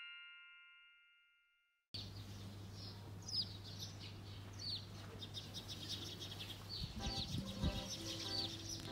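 The last notes of a chime ring out and fade to silence, then birds chirp with short falling calls about once a second over a low steady hum. Soft music joins about seven seconds in.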